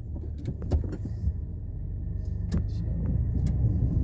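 Snow-plow truck running, with a steady low engine and road rumble heard from inside the cab and scattered sharp clicks and knocks. The rumble grows a little louder toward the end.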